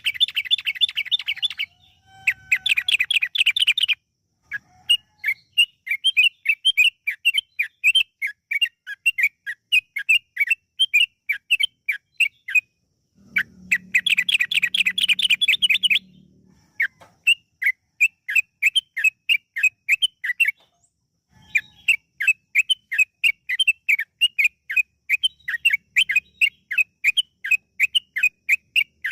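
Yellow-vented bulbul (trucukan) singing: a long run of quick, sharp whistled notes, about three a second. Dense chattering bursts come near the start and again in the middle.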